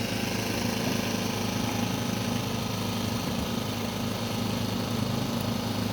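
Small boat's outboard motor running steadily, pushing the sailboat along while motor sailing.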